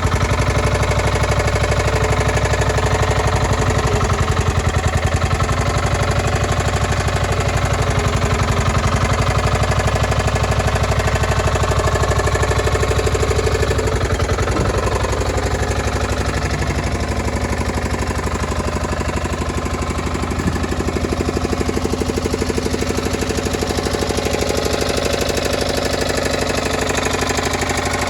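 Diesel engine of a Yanmar C10R-1 crawler carrier running steadily with a fast, even pulse. It eases off a little in the middle and picks up again.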